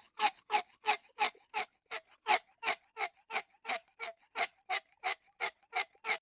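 Ticking clock sound effect used as a countdown timer, with short, evenly spaced ticks about three a second.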